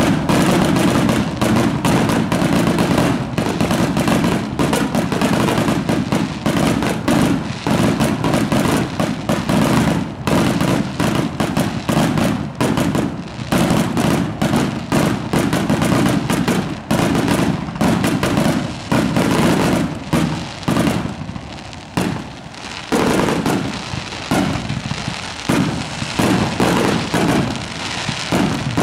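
Professional aerial fireworks going off right overhead in a rapid, near-continuous barrage of bangs and crackling. The barrage thins to more separate bangs in the last several seconds.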